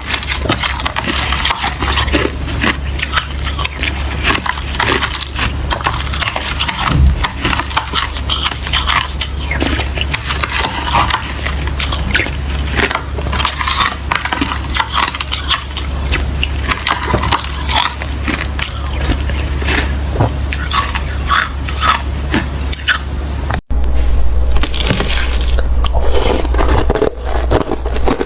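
Close-miked biting and chewing of watery, slushy ice: dense, irregular wet crunching and crackling, with a momentary cut near the end after which it is louder.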